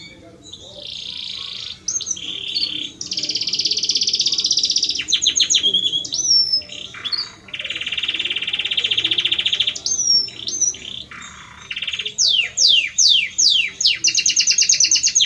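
Male Belgian canary singing a long courtship song to a hen: long, fast trills at several pitches, short swooping notes between them, then a run of quick downward-sweeping notes and a fast high trill near the end.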